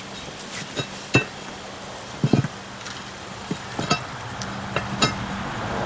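Irregular metallic clinks and knocks, a few of them louder, as tools work against a lawn tractor's steel wheel rim while the old tire is taken off.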